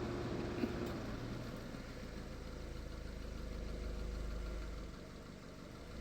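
A low steady rumble, with a faint steady hum for about the first second; the rumble eases off about five seconds in.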